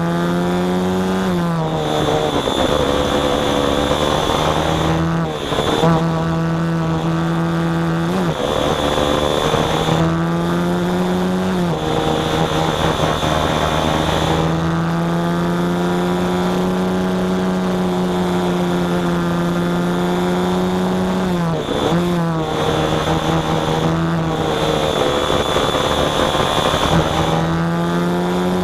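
Small engine running at a steady pitch. Its note dips briefly and comes back up about six times as the throttle is eased and reopened. A steady high whine runs with it.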